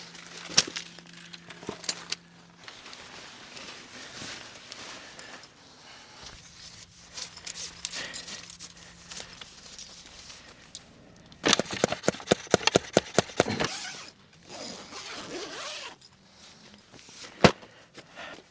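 Camping gear being handled, with scrapes and clicks, and a zipper pulled in a run of rapid ticks about twelve seconds in. A single sharp click comes near the end.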